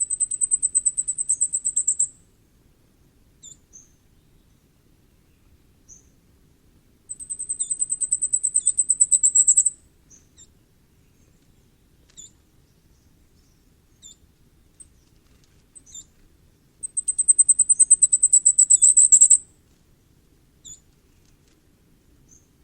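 Common firecrest singing: three songs of rapid, very high, thin notes that grow louder and end in a quick flourish, each about two and a half seconds long, with faint single call notes between.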